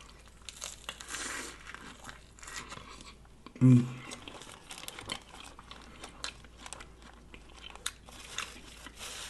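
Close-up eating sounds: chewing and crunching of a lettuce-wrapped sub sandwich, with crinkling of its paper wrapper. About four seconds in there is a short, louder vocal sound from the eater.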